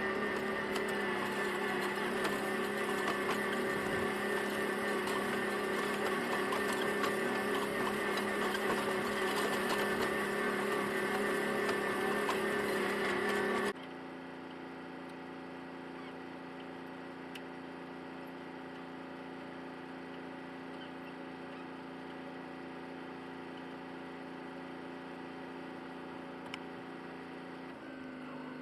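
Tractor engine running steadily under load, then an abrupt cut about halfway through to a quieter, lower steady engine hum.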